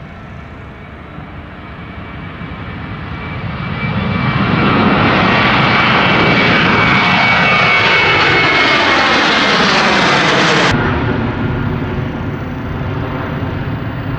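Airplane passing close overhead: its engine noise swells over a few seconds, holds loud with a slightly falling tone, then cuts off suddenly near the end, leaving a lower rumble.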